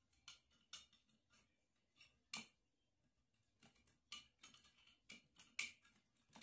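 Thin wooden kindling sticks clicking and knocking against each other as they are laid into a small, freshly lit fireplace fire: a dozen or so sharp, irregular clicks.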